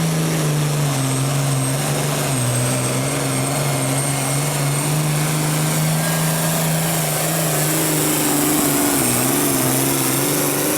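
Pulling vehicle's engine running hard and steady under load on the pull track, its pitch dipping slightly about two seconds in and wavering near the end.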